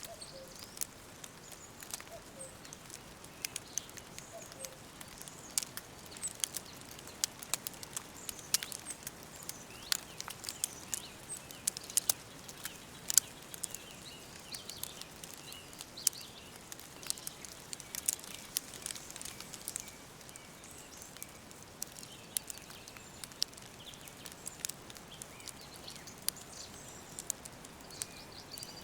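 Wood fire crackling with frequent sharp, irregular pops, over faint birdsong chirps and a soft steady hiss.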